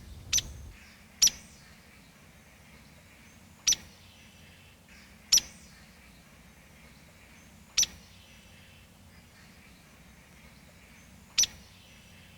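A songbird giving sharp single chip calls, six in all and irregularly spaced, over faint background bird sounds.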